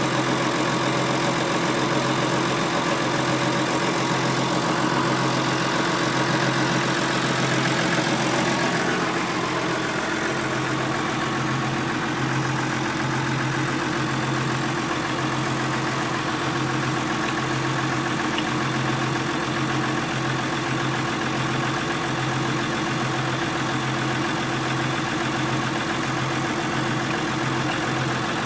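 Massey Ferguson 6290 tractor's diesel engine running steadily, easing slightly about nine seconds in and then holding an even note.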